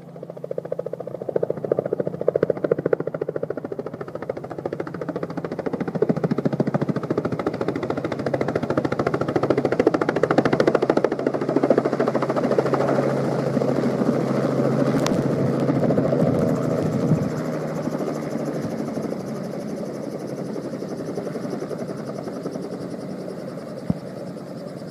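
Helicopter engine and rotor noise heard from inside the cabin during flight, a steady, loud drone with a fast rotor chop. It swells within the first couple of seconds and eases slightly in the later part.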